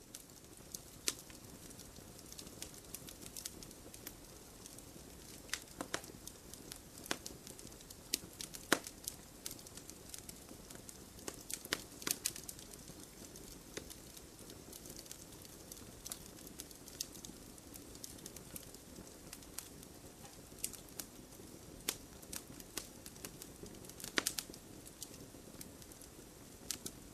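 Wood fire burning, with a steady low hiss and irregular sharp crackles and pops, a few louder snaps scattered through.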